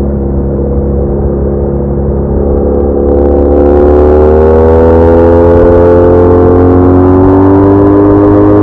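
BMW R1200R's boxer-twin engine pulling under acceleration. It gets louder about three seconds in, and its pitch then rises slowly and steadily.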